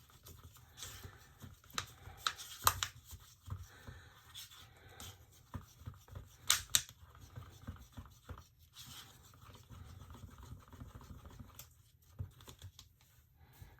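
Small handling noises on a worktable: scattered light clicks, taps and scrapes, with a couple of sharper knocks about a third and half of the way in.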